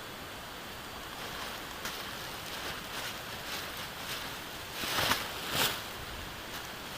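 Steady rushing of a jungle river, with light rustling and clicks over it and two louder short noisy bursts about five seconds in.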